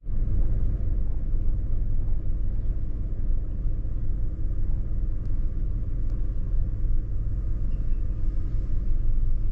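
Steady low rumble of a motor vehicle running: engine hum and road noise, without a break or change.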